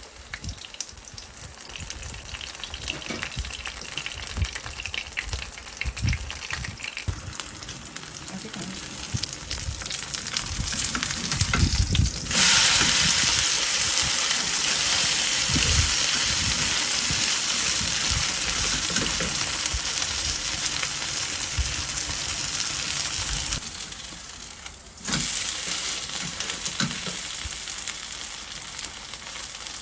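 Food frying in oil in a pan, a steady sizzle that jumps suddenly louder about twelve seconds in and drops back sharply near twenty-four seconds, with occasional light knocks of utensils.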